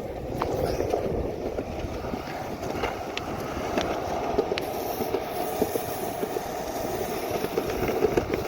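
Longboard wheels rolling over wet asphalt: a steady rough rumble, with a few sharp clicks along the way.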